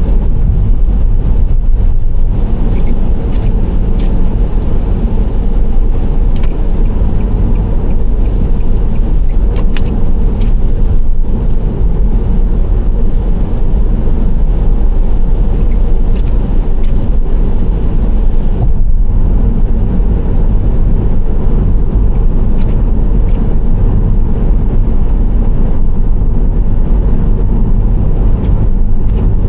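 Nissan Serena C25 minivan driving at steady speed: continuous engine and tyre road noise with a deep rumble. The hissy upper part of the noise drops away about two-thirds of the way through.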